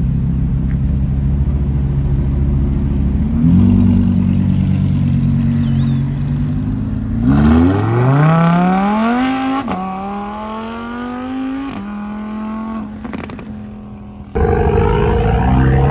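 A car engine running steadily, then accelerating hard: its pitch climbs, drops back at a gear change about two and a half seconds later, climbs again and fades as the car pulls away. Near the end it cuts suddenly to another engine accelerating.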